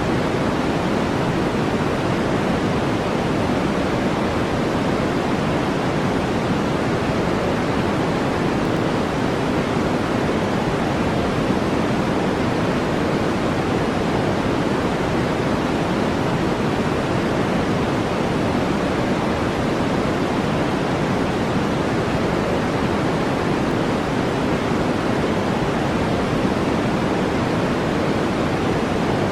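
Steady generated noise, an even, deep hiss weighted toward the low and middle range, with no change from start to end.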